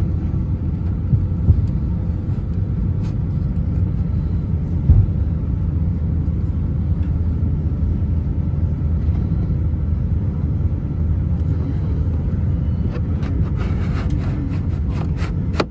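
Steady low rumble inside the cabin of an Airbus A350-900, with faint steady hum tones over it. There is a single knock about a second and a half in and another about five seconds in, and a run of clicks and rattles near the end.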